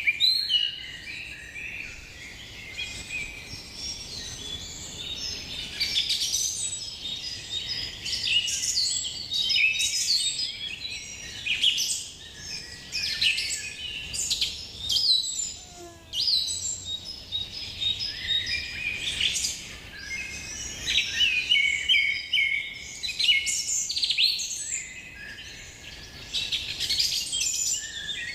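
Many birds chirping at once: a dense, continuous chorus of short high chirps and trills that swells and eases by turns.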